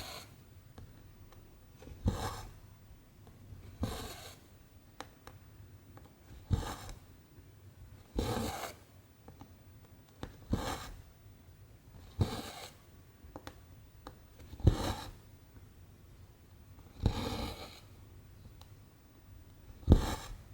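Cross-stitch needle and cotton thread being pushed and pulled through 14-count canvas, about nine stitches, one every two seconds or so: each a sharp tick of the needle piercing the fabric followed by a short rasping swish of thread drawn through.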